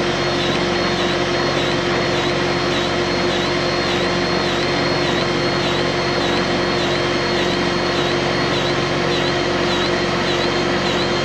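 Battery-operated grease gun's motor running steadily, pumping grease into a skid steer fitting, with a high whine that pulses about twice a second.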